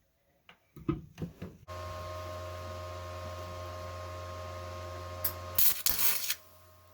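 Welder running a short bead on a steel mower-deck gauge wheel arm: a steady electrical hum with a light hiss that starts abruptly and cuts off abruptly after about four seconds. A few handling clicks come before it, and a brief burst of loud, harsh noise follows it.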